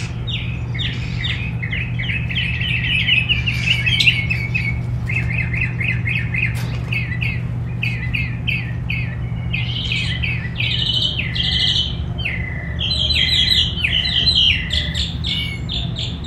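Several small songbirds chirping in quick, repeated notes with no break, over a steady low hum.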